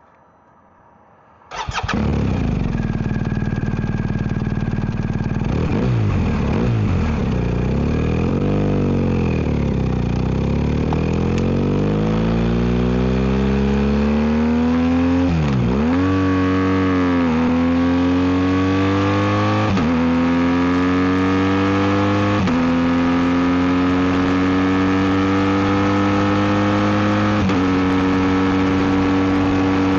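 BMW R1250 GS boxer-twin engine with an Akrapovic exhaust. It cuts in suddenly about a second and a half in and runs steadily, then accelerates hard, its pitch climbing and dropping back five times as the rider shifts up through the gears.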